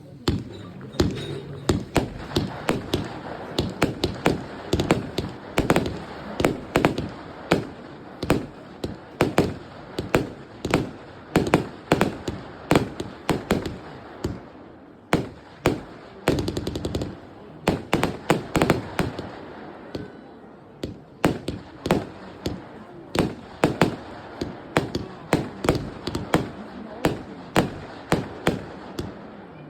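Startrade Feuerzauber 2 fireworks battery firing a steady string of shots and bangs, about one to two a second. Around the middle there is a very fast rattling volley.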